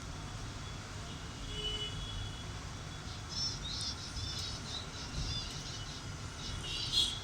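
A series of short high-pitched animal chirps, starting about three seconds in and loudest near the end, over a steady low background rumble.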